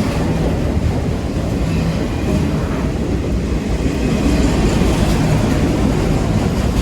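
Long CN freight train's cars rolling past at close range: a loud, steady rumble of steel wheels on the rails.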